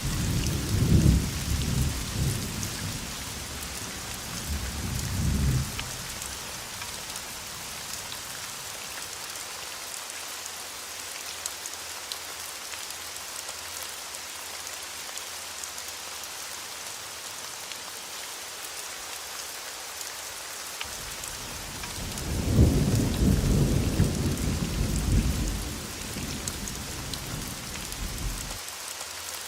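Steady rain hissing on a surface, with two rolls of low thunder: one rumbling for the first few seconds, fading by about six seconds in, and a louder one building about twenty-two seconds in and dying away near the end.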